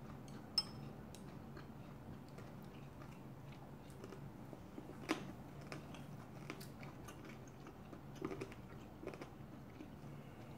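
Faint chewing on crunchy pork cartilage (odolbbyeo) mixed with rice. Scattered sharp clicks of a spoon and chopsticks on dishes come through, the loudest about half a second in and about five seconds in.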